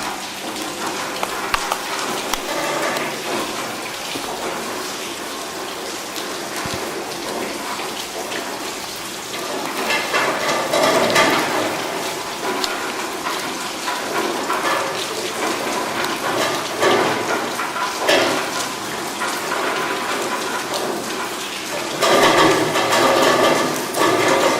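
Rain falling with water splashing and pattering on hard surfaces, loud and uneven, swelling about ten seconds in and again near the end.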